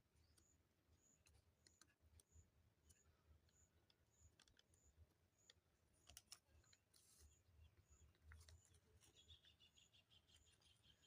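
Near silence: faint scattered clicks and a faint high chirp repeating about every half second or so, with a faint buzzy trill near the end.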